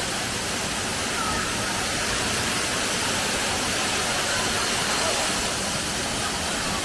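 Waterfall: a steady rush of water pouring over the cascade, an even hiss with no breaks.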